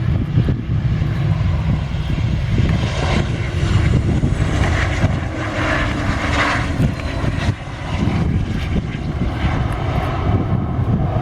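Airliner's engines running, the sound swelling about three seconds in and easing off after about seven seconds, over a steady low rumble.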